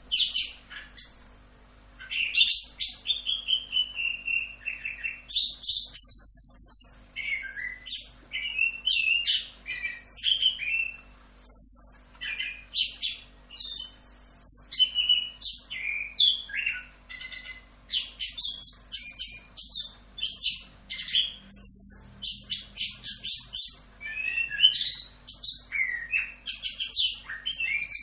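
Chestnut-capped thrush (anis kembang) singing a long, fast, varied song of chirps, trills and sliding whistles, broken only by short pauses, the longest about a second in.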